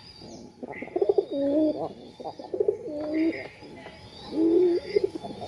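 Birds calling: low cooing phrases in three bouts, with fainter, higher chirps between them.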